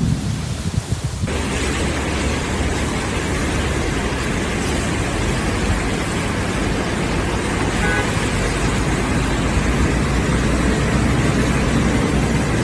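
Storm recording: a loud, steady rush of noise with a deep rumble underneath, with a brief horn-like toot about eight seconds in.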